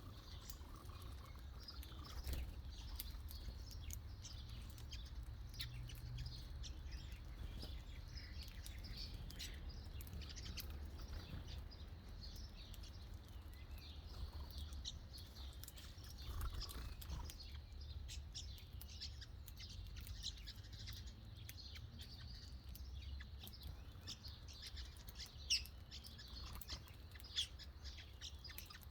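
Small birds chirping and tweeting: many short, quick high calls overlapping, over a steady low rumble, with two sharp louder ticks near the end.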